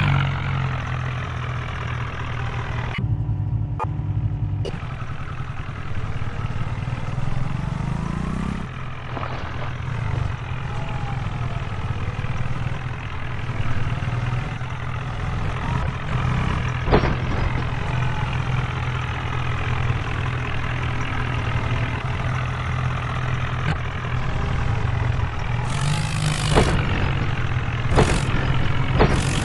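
HMT tractor's diesel engine running steadily with a low hum. Its note rises and then drops back sharply about eight seconds in.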